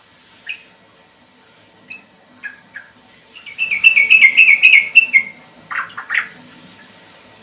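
Sooty-headed bulbul (trucukan) singing: a few short separate chirps, then a loud, fast run of rapid notes lasting about a second and a half, the 'ropel' rolling song, followed by two lower falling notes.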